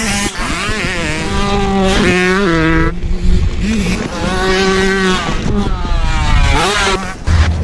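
Mountain bike's freehub buzzing as the rider coasts downhill, its pitch rising and falling with wheel speed, over tyre rumble on dirt and wind on the microphone. Louder low rumble near the end.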